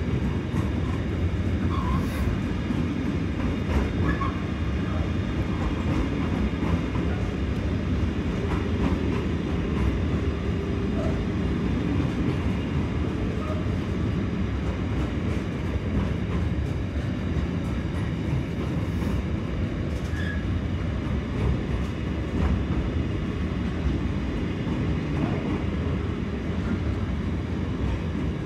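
Container freight train passing close by, its flat wagons rolling on the rails with a steady rumble of wheels on track.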